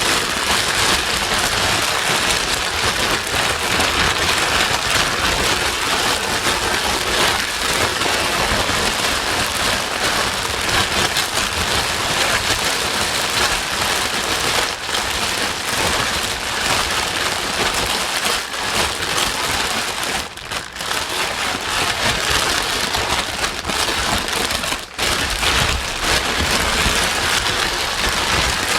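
Steady, dense hiss of white noise played to soothe a crying baby, loud and even with a faint pattering texture, dipping briefly twice in the last third.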